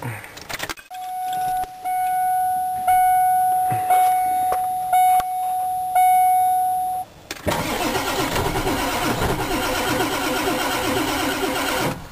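A steady electronic warning tone from the truck sounds for about six seconds, broken by a few clicks. Then the starter cranks the 1996 Ford 7.3 L Powerstroke turbo-diesel V8 for about four and a half seconds and stops suddenly. It is a cold start attempt on an engine that won't start below about 50 degrees, even with a new glow plug relay controller.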